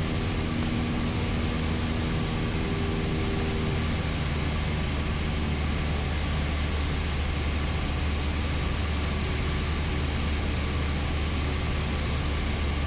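Cessna 172 engine and propeller droning steadily in cruise, heard from inside the cockpit as a constant low hum under an even hiss.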